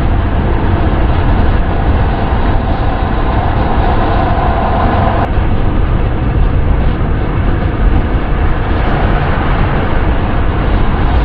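Steady wind and road rumble of a car being driven, heavy in the low end. A mid-pitched hum swells over it from about three seconds in and cuts off suddenly about five seconds in.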